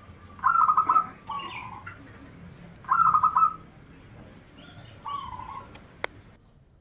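Zebra dove (perkutut) song: a quick staccato run of cooing notes followed by a lower coo, about half a second in, repeated near three seconds, then a shorter, lower phrase about five seconds in. A single sharp click comes near the end.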